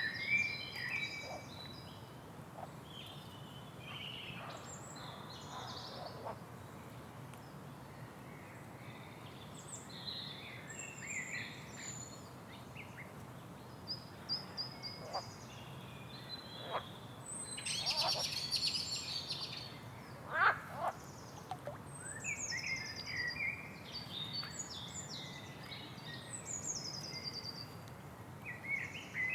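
Several wild songbirds singing and calling, their short chirping phrases overlapping over a steady faint background hiss; a denser, higher flurry of song comes about two-thirds of the way through.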